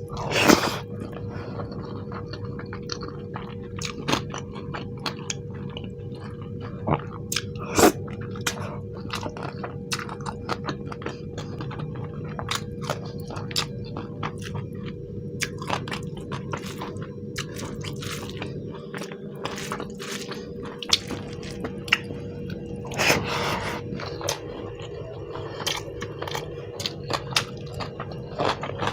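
Close-miked eating: steady chewing and biting with many small wet mouth clicks and a few louder bites. A faint steady hum runs underneath.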